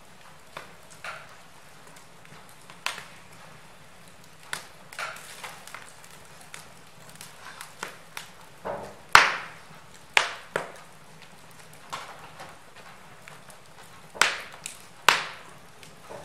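Wood fire burning in a fireplace, the logs crackling with irregular sharp pops over a faint hiss; the loudest pops come about nine, ten, fourteen and fifteen seconds in.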